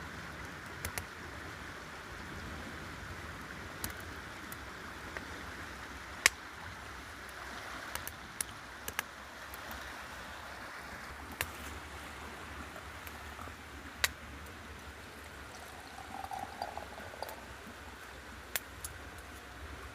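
Steady rush of running water, like a stream, with scattered sharp clicks or snaps, the loudest about six and fourteen seconds in.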